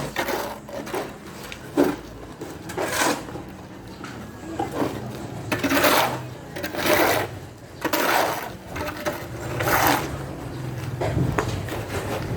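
Repeated rough scraping or rasping strokes, one every second or so and uneven in spacing, with a low steady hum coming up near the end.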